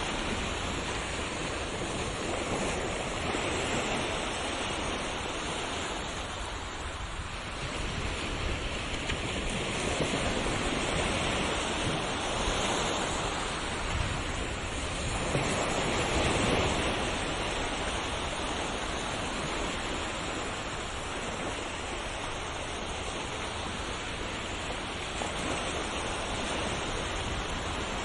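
Sea waves breaking and washing on a shore, a continuous surf noise that swells and eases slowly, with the biggest surge about halfway through.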